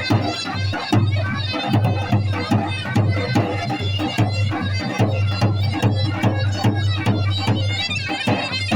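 Traditional folk music: a reedy wind instrument with a steady drone, over dense, quick percussion strokes.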